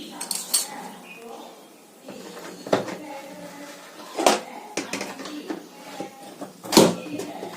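Knocks and clatter of washing-machine tub parts being handled and fitted together, about five sharp knocks, the loudest near the end.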